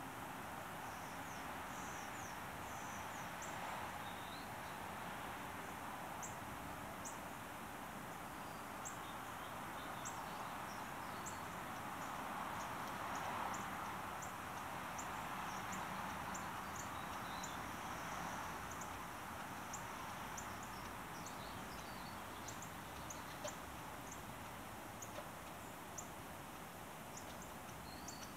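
Birds giving many short, high, thin call notes, scattered and more frequent in the second half, over a steady background rush that swells a little midway.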